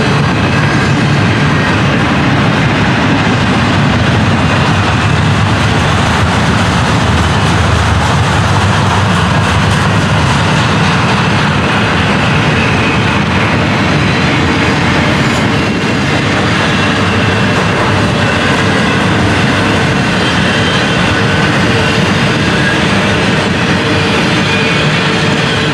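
Double-stack intermodal freight train rolling past: a steady rumble and rattle of the container well cars' wheels on the rails, with faint steady ringing tones above it.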